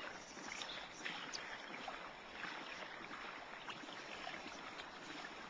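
Faint water trickling and lapping along a Hobie pedal kayak's hull, with many small scattered drips and splashes.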